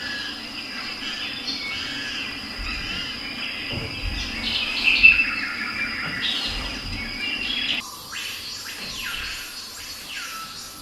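Bird-like chirping and squawking calls, busy and overlapping at first. From about eight seconds in they become a series of separate calls, each dropping in pitch.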